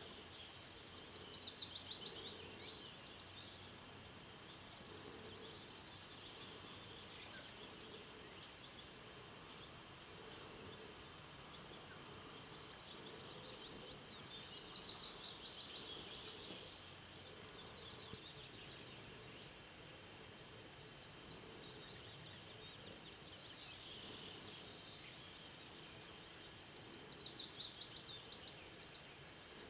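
Small birds chirping: several short bursts of rapid, high-pitched chirps, the loudest about a second in, around the middle and near the end, over a faint steady background.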